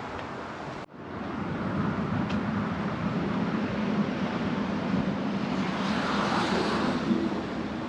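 Steady traffic rumble, with a swell a little over halfway through as a vehicle goes by. The sound cuts out for an instant about a second in.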